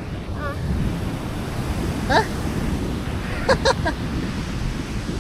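Sea waves surging on the beach, with wind buffeting the microphone. Brief voices call out a few times over the surf.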